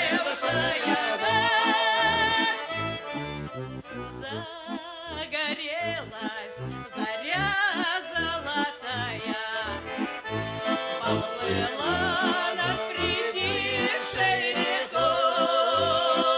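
Accordion playing an instrumental folk passage: a melody of held and wavering notes over a steady, evenly pulsing bass-and-chord accompaniment.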